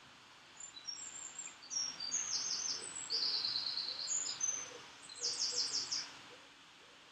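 A songbird singing: a run of high chirps and quick trills of rapidly repeated notes, starting about half a second in and stopping about a second before the end.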